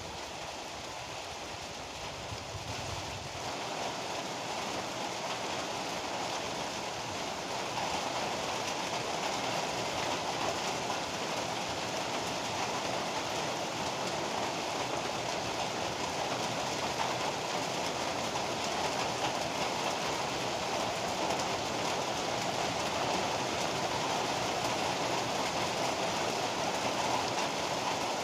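Heavy rain pouring down in a steady, dense hiss, growing a little louder over the first several seconds, with a low rumble under it during the first few seconds.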